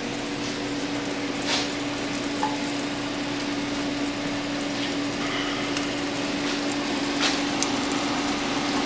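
Butter and food sizzling in a hot frying pan: a steady frying hiss with scattered crackling pops. A steady low hum runs underneath.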